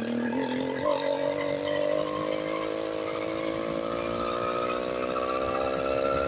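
Motorized bicycle's small engine running under way, its pitch dipping briefly about a second in and then climbing slowly and steadily as it picks up speed.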